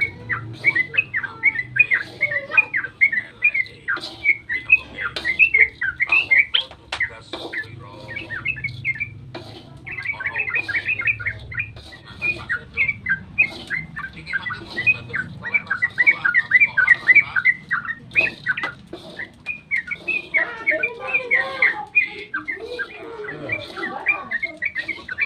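Yellow-vented bulbul (trucukan) singing a long, rapid chattering song of short bubbling notes, with brief pauses about ten and twenty seconds in.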